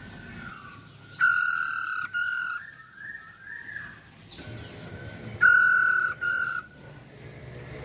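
Female masked laughingthrush (poksay hongkong) calling: two loud calls about four seconds apart, each a long note followed by a short one, with softer chirps in between.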